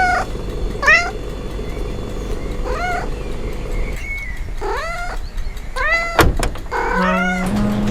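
Cat meowing repeatedly, about six separate meows each rising and then falling in pitch.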